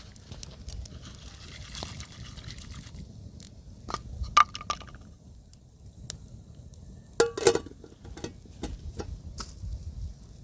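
Kitchen work with liquid: scattered light knocks and ticks of utensils on dishes, with two louder ringing clinks, about four seconds in and about seven seconds in.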